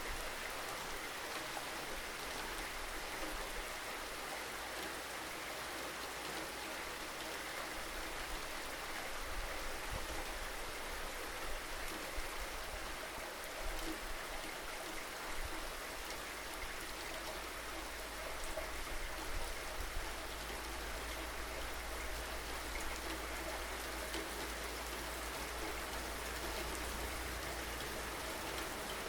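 Steady rainfall, an even hiss of drops on surfaces with a few louder single drops, over a steady low rumble.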